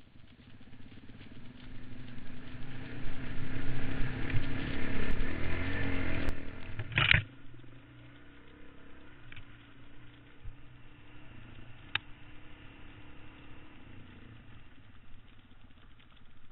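Dirt-bike engine heard from a helmet camera, running loud and revving up under way. About seven seconds in it cuts off suddenly, and a much quieter stretch follows: the engine running low, with a few light clicks and clatter.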